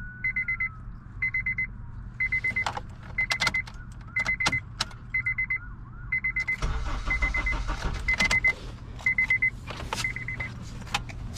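A car's electronic warning chime beeps in quick bursts of about five pulses, roughly once a second, with a few clicks and knocks. About two-thirds of the way in, the starter cranks the engine with a steady rumble; the car cranks but won't start.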